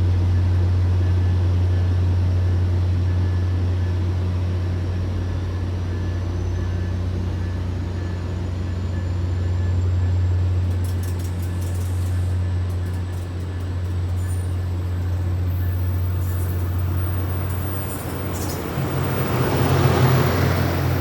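Steady low rumble of vehicles with a deep hum at a train station; near the end a train draws near and its rumble swells.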